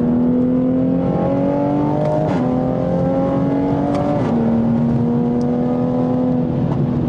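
Big-turbo 2020 Toyota Supra's turbocharged inline-six accelerating hard, heard from inside the cabin. It climbs in pitch through two quick upshifts, about two seconds apart, each one a sudden drop in revs with a short crackle from the exhaust. It then pulls on at a fairly steady pitch.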